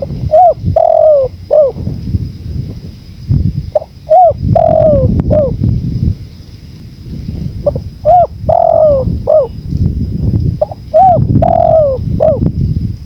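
Spotted dove (tekukur) song: four repeated cooing phrases of several arched notes each, spaced about three to four seconds apart, over a steady low rumble of wind.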